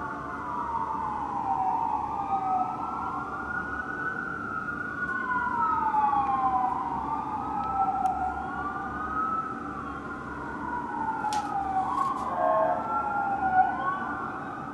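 Fire engine's electronic sirens wailing, two slow rising-and-falling sweeps overlapping each other, about one cycle every three to four seconds. A short horn blast sounds about twelve seconds in.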